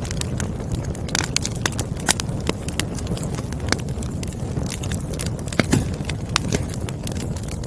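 Burning firewood crackling, with irregular sharp pops and snaps, a few louder than the rest, over a steady low rumble.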